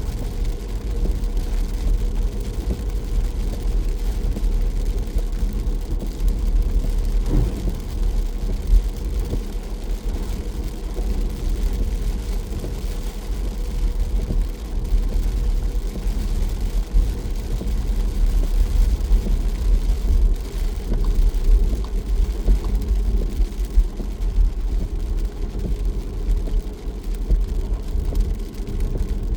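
A car being driven: a steady low rumble of engine and tyres on the road, with a constant faint hum over it.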